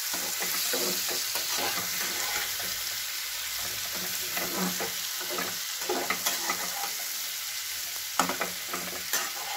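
Potatoes, onion and tomato with ground spices sizzling in oil in a nonstick kadai while a flat spatula stirs and scrapes them: the masala being fried down (koshano), with a little hot water added so the spices don't burn. A steady sizzle runs under the repeated scrapes, with a few sharper clicks of the spatula against the pan in the last few seconds.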